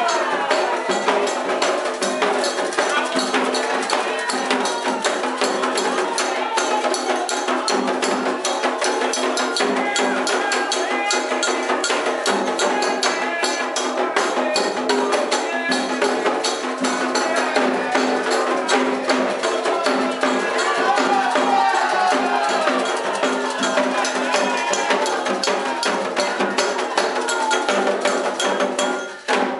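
Candomblé ceremonial music: voices singing over a fast, steady beat of percussion with a metal bell and a rattle. It cuts off abruptly near the end.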